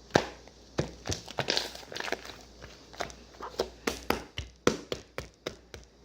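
An irregular series of sharp taps and clicks, about two or three a second.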